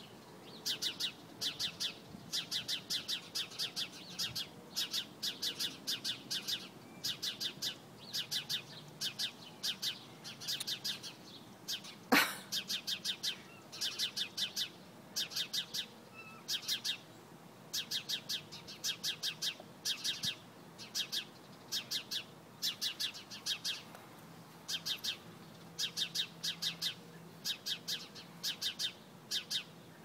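Small birds chirping in quick clusters of short, high notes, repeating about once a second without a break. About twelve seconds in, a single sharp knock.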